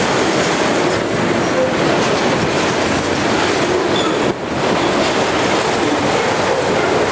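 Empty auto-rack cars of a Norfolk Southern freight train rolling past: a steady loud rumble and rattle of steel wheels on rail, with a brief dip in the noise about four seconds in.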